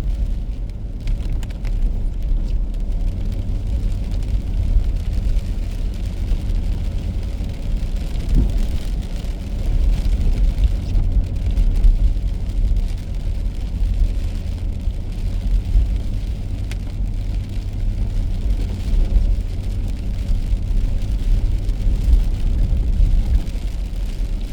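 A car driving on rain-wet roads: a steady low rumble of tyres and engine, with faint ticks of rain.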